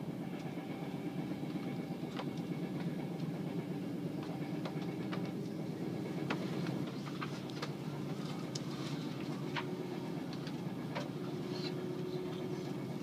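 Passenger train running at speed, heard from inside the carriage: a steady low rumble with light clicks and knocks scattered at irregular times.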